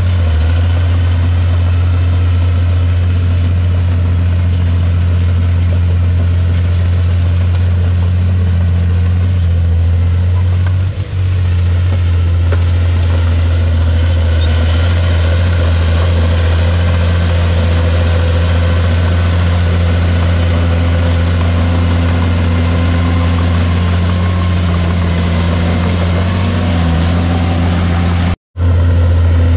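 Heavy diesel engine of a Komatsu D51PX bulldozer running steadily with a deep, even drone. The sound cuts out for an instant near the end.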